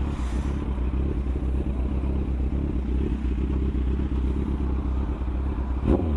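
Motorcycle engine running at low speed with a steady low throb, and a single sharp knock near the end.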